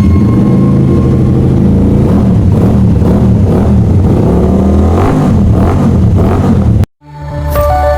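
Morbidelli C252V motorcycle's V-twin engine running through a custom exhaust, idling and then revved in repeated blips, the pitch rising and falling several times. The engine sound cuts off abruptly near the end.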